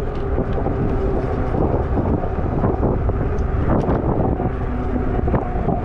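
Wind buffeting the microphone while riding an e-bike, a steady low rumble with a constant hum underneath.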